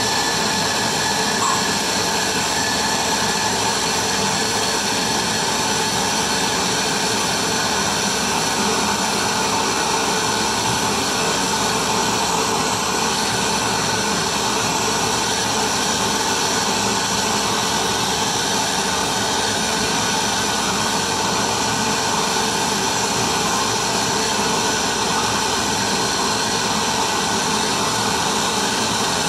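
Gas welding torch flame hissing steadily as it is used for welding during a refrigerator repair.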